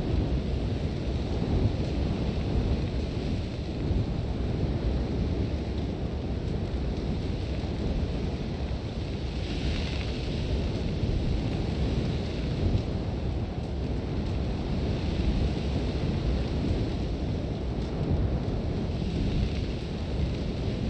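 Sandstorm wind blowing hard in a deep, steady rumble, with a hiss of blown sand that swells up a few times.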